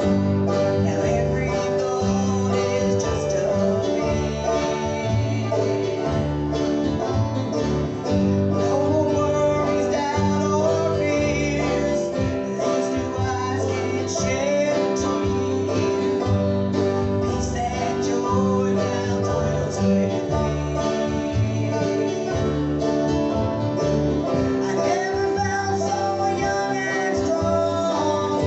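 A live gospel group playing a bluegrass-style song on acoustic guitar and other plucked strings, running steadily without a break.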